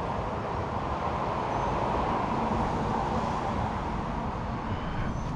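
Steady rumbling noise with no separate events.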